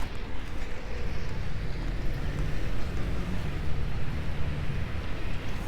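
Low, steady rumble of street traffic mixed with wind buffeting the microphone.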